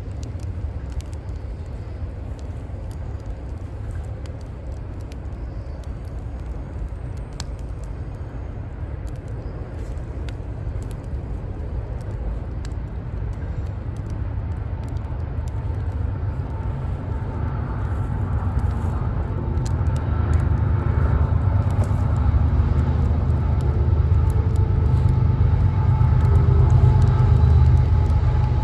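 Low rumble of city traffic with faint, scattered crackles from a burning wood fire. From about halfway a motor vehicle grows steadily louder, its engine adding a steady hum.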